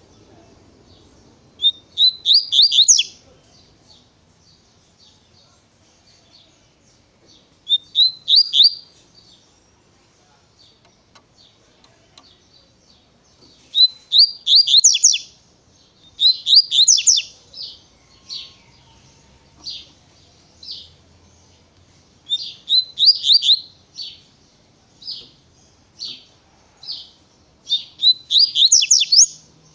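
Double-collared seedeater (coleiro) singing its fast 'tui tui' song: repeated short phrases of rapid high, clear notes, about six loud phrases with single notes scattered between them.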